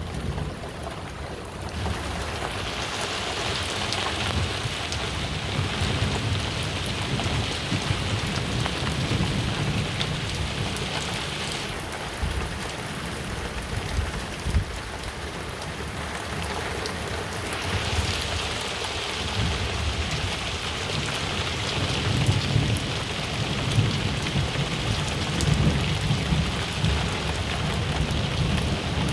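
Heavy rain falling steadily in a thunderstorm, with scattered drop clicks and a low rumble of thunder underneath that swells in the last third. The higher hiss of the rain drops away for a few seconds near the middle, then returns.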